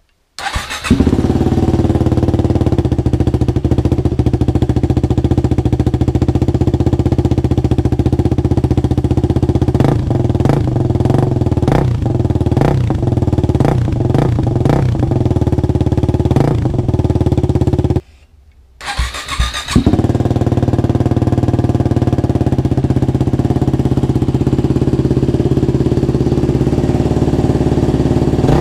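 Motorcycle engine running through a newly fitted aftermarket exhaust, idling steadily with several quick throttle blips in the middle. The sound breaks off suddenly about two-thirds of the way through, then the engine is running again.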